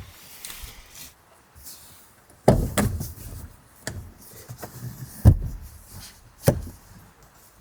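A series of heavy thumps and knocks in a small enclosed space: three loud thumps spread over about four seconds, with smaller knocks between them.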